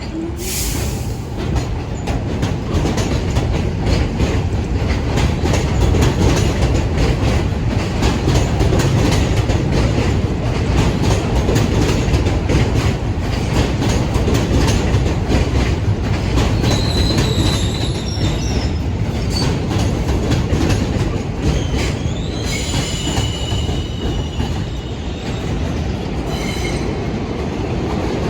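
New York City subway train running through an elevated station: a loud, steady rumble with rapid clacking of wheels over rail joints, and brief high wheel squeals in the second half.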